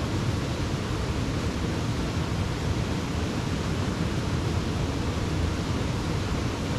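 Small moorland stream running over rocks, a steady rushing of water.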